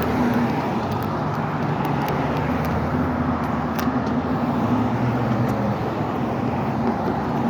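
Steady car and road-traffic noise: engine hum and a continuous rumble of tyres on the road.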